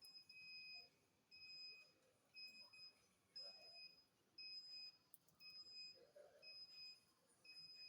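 Electronic groundwater-detector machine beeping faintly and steadily, about one high-pitched beep a second, while it scans for a borewell water point.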